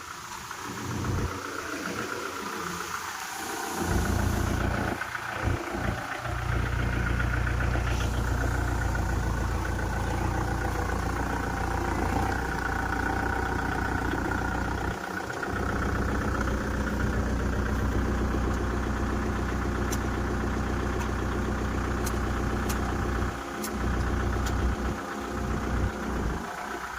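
Kubota MU4501 tractor's diesel engine running steadily at idle, getting louder about four seconds in.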